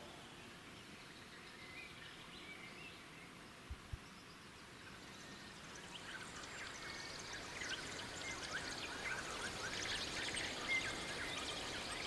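Quiet outdoor ambience with small birds chirping, the calls growing busier from about halfway. Two soft low thumps come close together about four seconds in.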